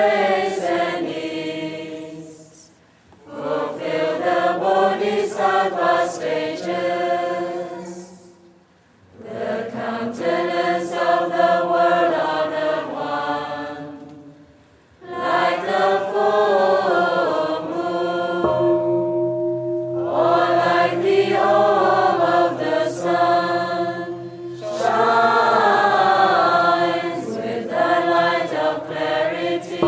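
A group of voices chanting together in slow sung phrases, with short breath pauses between them. About two-thirds of the way in, a steady ringing tone starts sharply and holds under the chanting; it sounds again at the very end.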